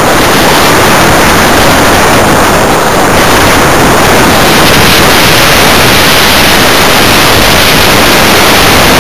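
Loud, steady rush of airflow buffeting the microphone of a camera mounted on a flying RC electric glider.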